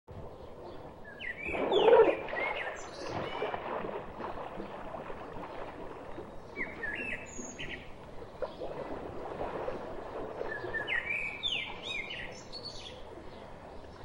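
Small birds chirping in short phrases of quick gliding notes, three bouts, over a steady background hiss. A brief louder noise about two seconds in stands out above the rest.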